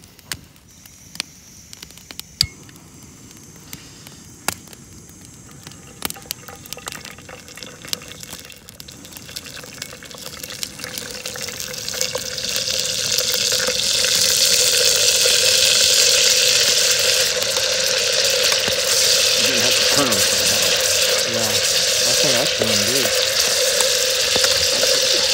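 Venison tenderloin frying in hot oil in a Jetboil cup, a loud steady sizzle over the hiss of the stove's gas burner, building up from about ten seconds in. Before that, a few sharp clicks and knocks of handling the stove and cup.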